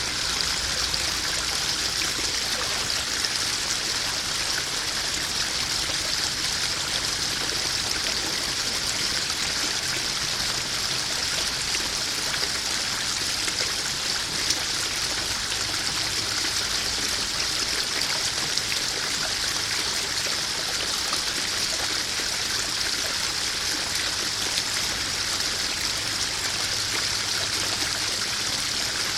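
Small garden waterfall spilling into a koi pond: a steady splashing rush of running water that does not change.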